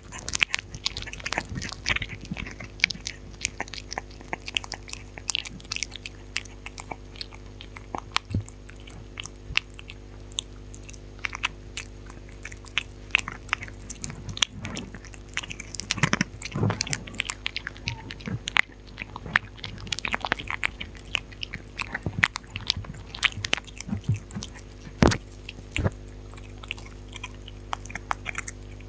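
A dog chewing and crunching its food close to the microphone: irregular crisp bites and crunches, over a steady low hum.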